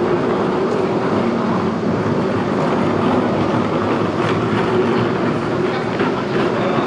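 Busy cafe ambience: a steady, loud mechanical drone with a low hum, and a few faint clinks about four and six seconds in.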